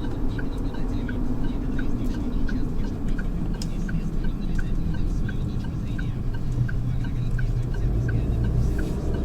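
Geely Atlas cabin noise while driving, a steady low engine and road rumble, with the turn-signal indicator ticking evenly about three times a second.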